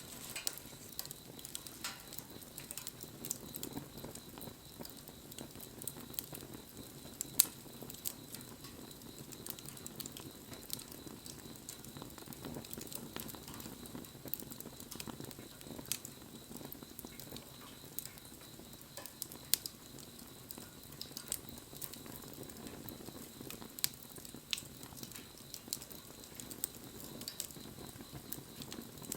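Wood fire burning, with a steady low hiss and scattered crackles and sharp pops, the loudest pop about seven seconds in.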